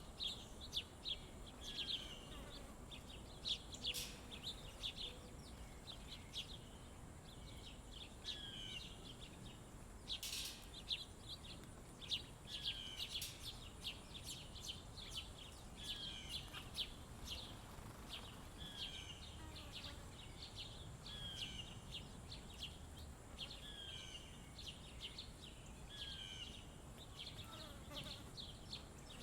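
Small birds chirping over and over: short high chirps about once a second, with fainter falling notes beneath and a faint steady high buzz behind them. A single sharp click comes about ten seconds in.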